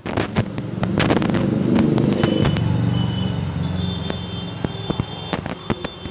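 Firecrackers popping in sharp, irregular cracks, while a motor vehicle passes with a low engine hum that rises about a second in and fades after about four seconds.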